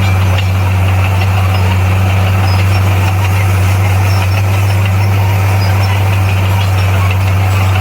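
Bulldozer's diesel engine running at a steady pace, with a constant low hum and rattle.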